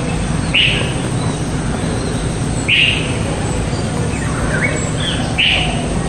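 Bird calling: three loud, short, sharp calls roughly two to three seconds apart, with a few fainter chirps between the second and third. A steady low hum runs underneath.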